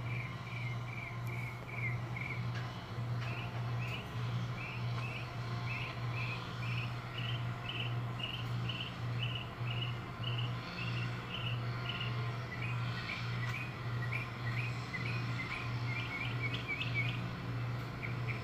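A bird chirping over and over, short notes about two a second, over a steady low hum.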